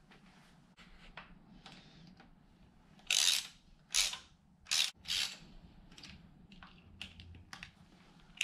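Hand tools working on engine parts: quiet handling, then a run of short rasping strokes about three seconds in.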